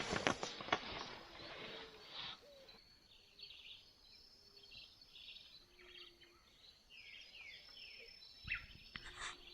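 Rustling and handling noise, then a string of short high chirping calls from small animals, some of them quick falling chirps, with more rustling near the end.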